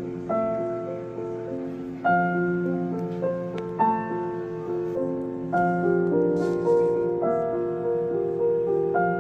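Background piano music: a slow run of struck chords and notes, a new chord about every one to two seconds.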